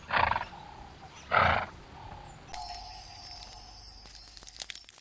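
Two loud, short animal calls a little over a second apart.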